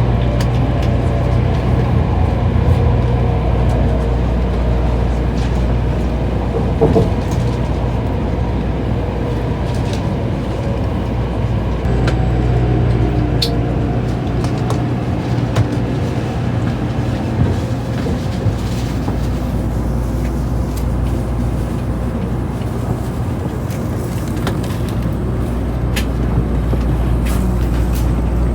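Steady running noise of a Tokaido Shinkansen train inside the passenger cabin: a constant low rumble with a few faint clicks.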